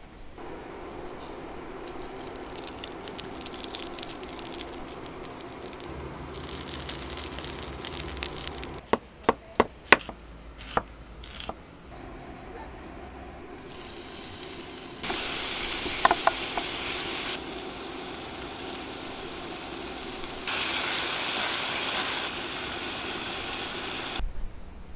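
Sliced red onion sizzling in a frying pan, heard as a steady hiss in several separate takes that start and stop abruptly, loudest in the second half. A run of about eight sharp taps or drips comes about a third of the way in.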